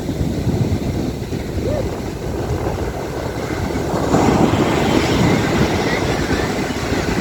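Wind buffeting the microphone: a steady low rumbling noise that grows louder about four seconds in.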